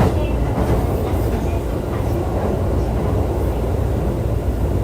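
Running noise of a JR East E531-series electric multiple unit in motion, heard from inside the car: a steady low rumble of wheels on rail, with a brief click at the start.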